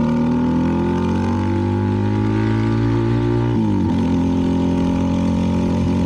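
CFMoto 300NK's single-cylinder engine running through a KO aftermarket exhaust while riding. The revs climb slowly, then drop sharply about three and a half seconds in and settle, as at a gear change.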